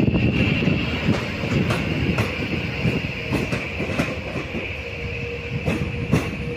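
A train rolling along station tracks, its wheels clacking irregularly over rail joints and points over a low rumble, with a steady high whine from the wheels on the rails. It slowly grows fainter as it moves away.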